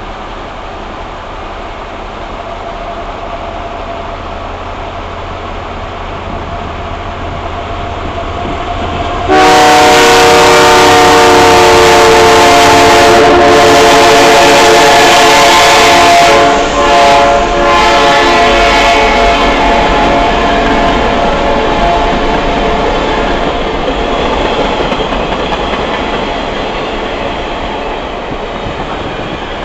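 Canadian Pacific Holiday Train approaching with a steady rumble. About nine seconds in, the locomotive's horn sounds very loud, a chord of several tones held for about seven seconds. After two short breaks it carries on more softly and fades out, while the train's cars roll past and the rolling noise slowly dies down.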